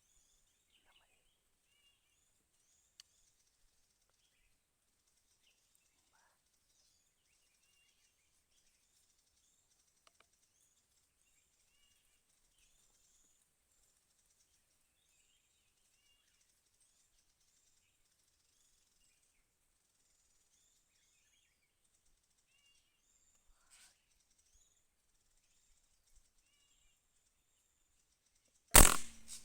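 Small birds chirping faintly and repeatedly in the trees, then a single loud gunshot near the end that rings on briefly.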